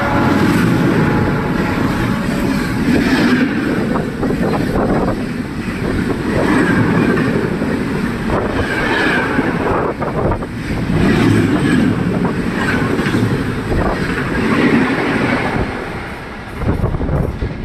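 Rajdhani Express passenger coaches rushing past at high speed: a loud, steady roar of wheels on rail with clickety-clack and swells every few seconds, easing off near the end.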